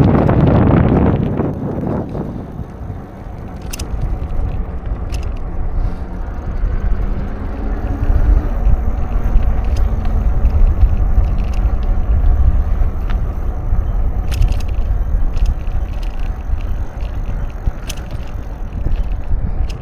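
Riding a bicycle: a steady, gusty low rumble of tyres and wind on the microphone, with a few light rattling clicks. A vehicle passes loudly in the first two seconds and fades away.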